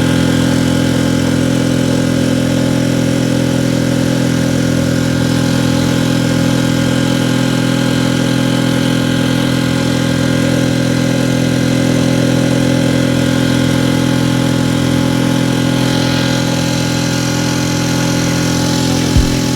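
Mercury 4 hp outboard motor running steadily under way, its pitch unchanged throughout, with a single sharp knock near the end.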